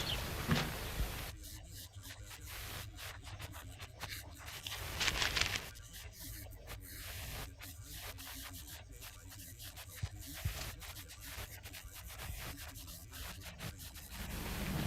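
A plasterer's hand tool scraping and rubbing straw-fibre render across a wall in faint, irregular strokes, with a louder stroke about five seconds in.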